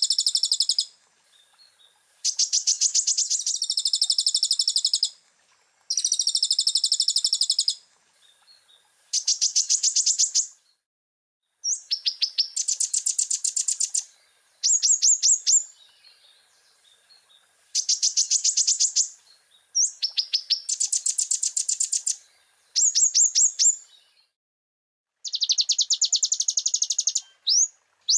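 Kolibri ninja (konin) sunbird singing: high, rapid trilled phrases of one to three seconds each, repeated with short pauses, some wavering and some a fast pulsed chatter, in the varied 'full isian' song.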